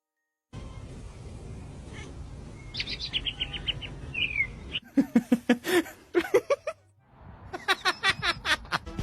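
Bird calls: a quick run of high chirps with a falling whistle, then two bursts of loud, repeated calls.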